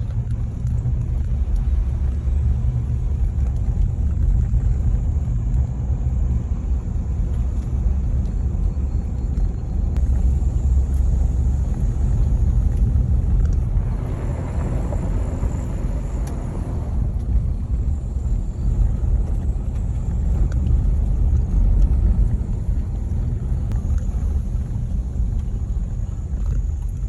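Car driving along the road: a steady, loud low rumble of engine and road noise, with a louder rush of noise for a few seconds about halfway through.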